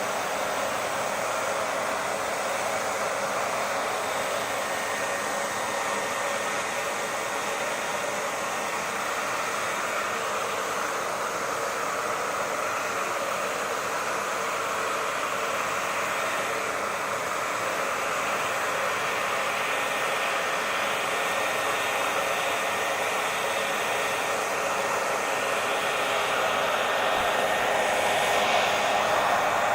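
Handheld hair dryer running continuously: a steady fan-and-airflow rush with a faint motor whine, growing slightly louder and brighter near the end.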